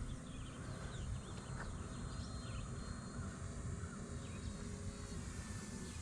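Faint outdoor ambience: small birds chirping over a low wind rumble on the microphone, with the faint steady whine of the RC Cessna 182's electric motor in the distance as it climbs out.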